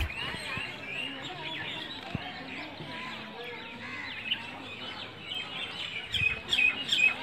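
Many small birds chirping and twittering, the chirps growing busier and louder in the last second or so.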